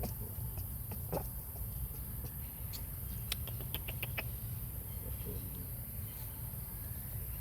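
Outdoor ambience: a steady low rumble and a constant high hiss, with scattered short clicks and faint squeaks, most of them about three to four seconds in.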